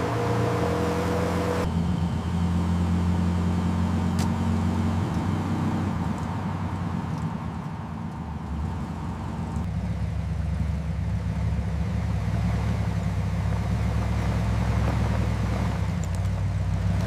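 Dodge WC-54's flathead straight-six engine running steadily in a low hum, heard across several edited shots that change the sound abruptly a few times.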